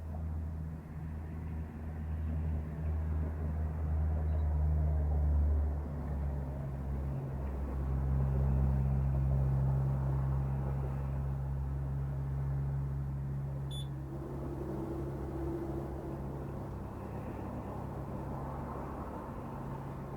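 Road traffic: vehicle engines running and passing by as a low rumble that swells about five seconds in and again around nine seconds in.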